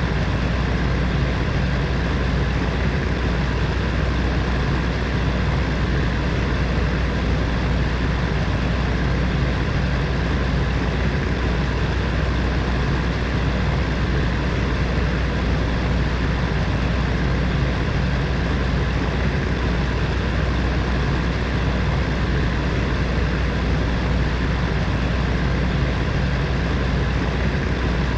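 Space heater's fan running steadily: an even whooshing hum, heaviest in the low end, with a faint steady motor drone.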